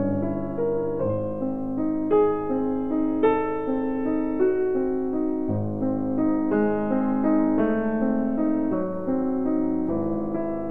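Background music: slow piano playing held notes and chords that change about once a second.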